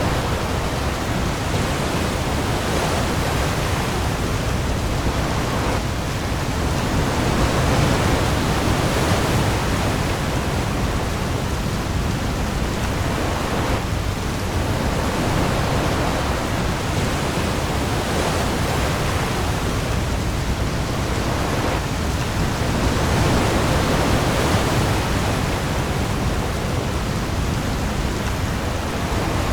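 Heavy rain falling on the sea with waves: a dense, steady hiss that swells and eases every several seconds, over a deep low rumble.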